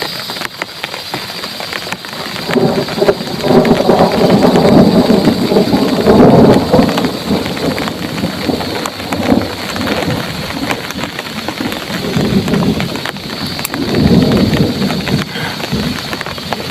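Heavy rain pouring steadily while thunder rumbles, loudest from about three to seven seconds in, with another roll of thunder near the end.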